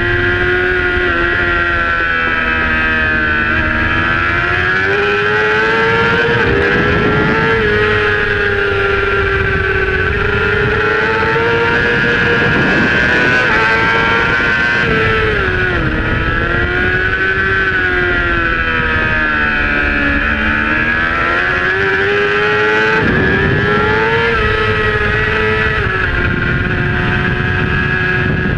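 Supersport racing motorcycle's engine at high revs on track, its pitch repeatedly climbing and dropping as the rider accelerates and slows for corners, over a steady rush of wind.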